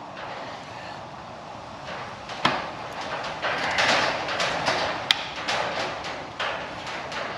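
Metal hand tools working a valve spring on an engine block to free the valve collets: a sharp knock about two and a half seconds in, then a run of metallic clicks, taps and scraping, with a sharp tick about five seconds in.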